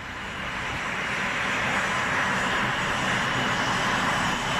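Jet aircraft engine running: a steady rushing roar with a faint high whine, swelling over the first second or two and then holding steady.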